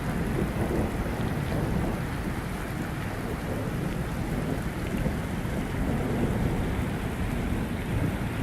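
Heavy rain pouring steadily, a dense hiss over a strong low rumble.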